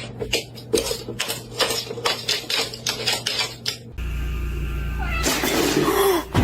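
A domestic cat meowing, one drawn-out call near the end, after a run of rapid clicks over a steady low hum.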